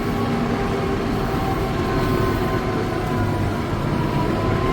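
Tractor engine running steadily while manoeuvring, heard from inside the cab: a low rumble with a few steady tones over it.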